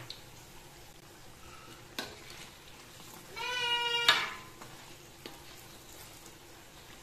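Battered oncom sizzling in hot oil in a wok, with a metal spatula knocking against the pan. About three seconds in, a small child lets out one short, high wailing cry, cut off by a sharp knock.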